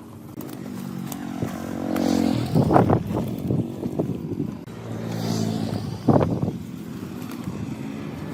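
Small motorcycle engine running steadily and revved up twice, once about two seconds in and again about five seconds in, with a sharp louder burst at each peak.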